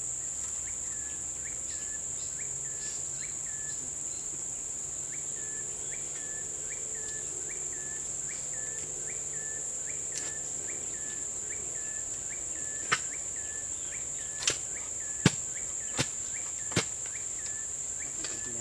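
Steady high-pitched insect chorus of tropical forest, with a short chirp repeating about two to three times a second. In the last third come five sharp knocks, wood being struck during shelter building.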